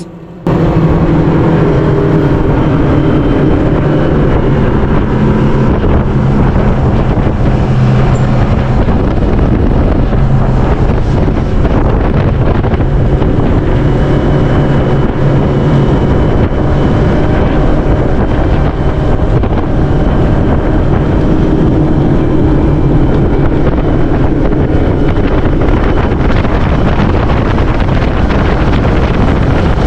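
Motorboat running at speed: a steady engine drone under heavy wind rush on the microphone, starting abruptly about half a second in.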